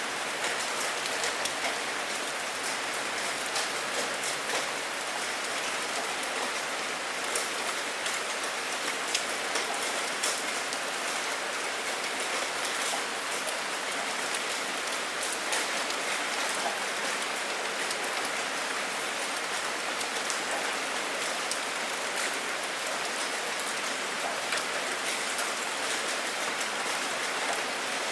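Steady rain falling on a surface, an even hiss dotted with many small sharp drop ticks.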